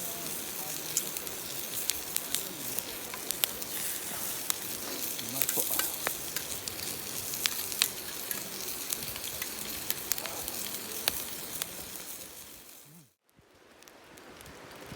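Food sizzling and crackling in a hot pan, a dense steady sizzle with many sharp pops, which cuts off abruptly near the end.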